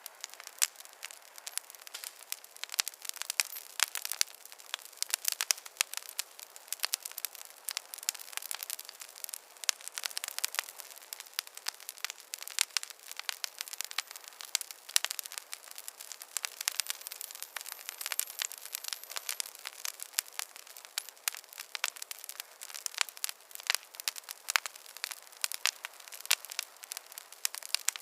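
Wood fire crackling: a dense, irregular run of small pops and snaps over a faint hiss, thin with nothing deep underneath.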